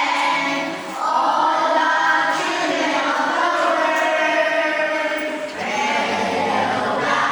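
A group of voices singing together, worship-style, holding long notes with short breaks between phrases about a second in and again near the middle.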